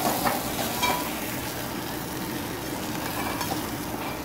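Ground masala paste sizzling as it fries in oil in a metal pot, stirred with a steel spoon that clinks against the pot a couple of times in the first second. The paste is fried through, ready for the chickpeas to go in.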